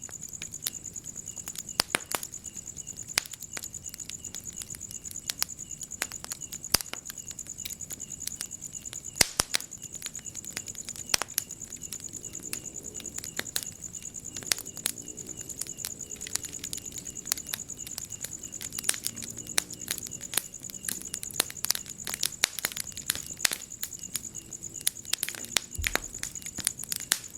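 Wood fire crackling in a fireplace, with irregular sharp pops and snaps, a few louder than the rest. Under it runs a steady high-pitched insect trill.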